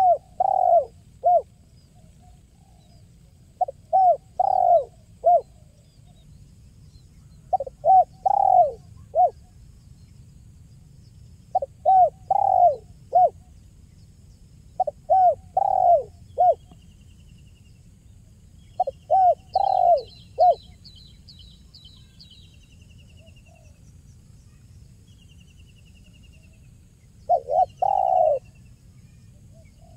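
Spotted dove (tekukur) cooing: a phrase of three or four low notes repeated seven times, about every four seconds. A faint high chirping of a small bird comes in about two-thirds through.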